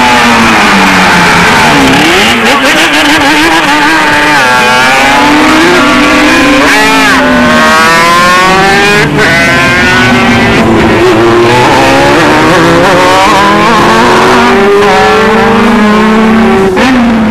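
Several racing motorcycle engines at full throttle, overlapping, their pitch climbing under acceleration and dropping back with each gear change as they pass.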